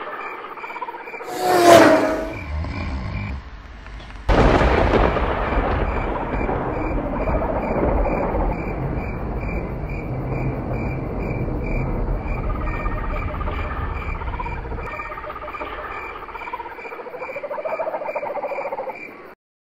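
Insect chirping in a steady rhythm, two to three chirps a second. Under it, a rumbling noise starts suddenly about four seconds in, and everything cuts off just before the end.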